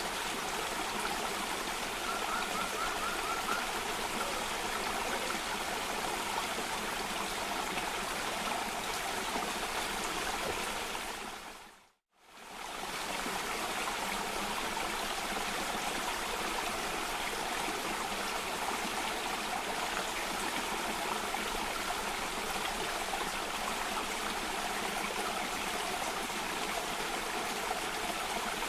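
Steady rushing of water in a cascading stream. A short bird trill sounds about two seconds in, and about halfway through the water fades out to silence for a moment and straight back in.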